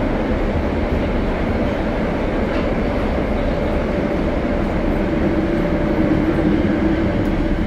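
Tokyo Metro 02 series subway train running between stations, heard from inside the car: a steady, even rumble of wheels on rail and running gear, with a hum that swells for a couple of seconds about five seconds in.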